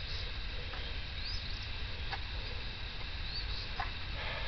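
Wild birds chirping: short high chirps that rise and fall, about one every second, over a steady low rumble, with a few faint clicks in between.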